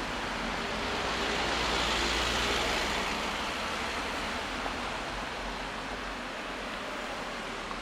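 Freight train rolling past the level crossing: a steady rushing noise of wheels on rail that swells about two seconds in and then slowly eases off.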